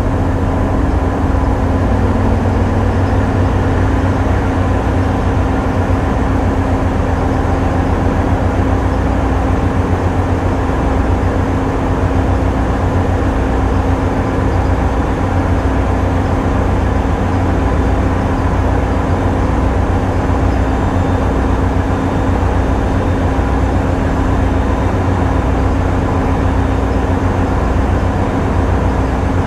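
Tugboat's diesel engines running steadily, a constant drone with a low, throbbing rumble beneath it.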